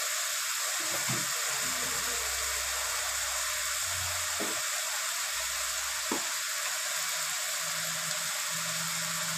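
Onion and garlic masala with turmeric frying in oil in an aluminium kadai, sizzling steadily, with a couple of faint ticks in the middle.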